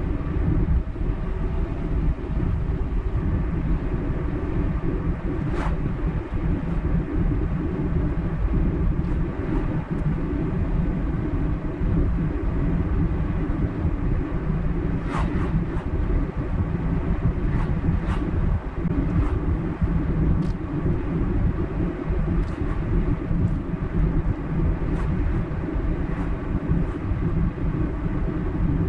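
Car driving along a road: a steady low rumble of tyre and engine noise, with a few faint ticks scattered through it.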